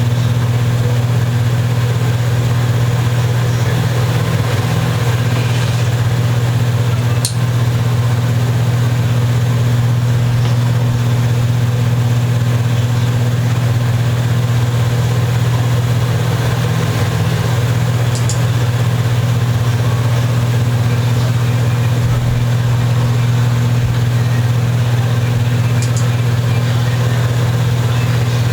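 Steady low machine hum, unchanging throughout, like a running motor or idling engine, with a few faint clicks.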